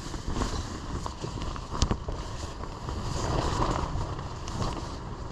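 Strong wind buffeting the microphone, a steady rushing with deep rumble that swells about three seconds in, with a few light knocks.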